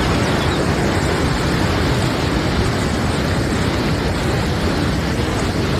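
Fast-flowing river water running steadily, a loud even noise strongest in the low range.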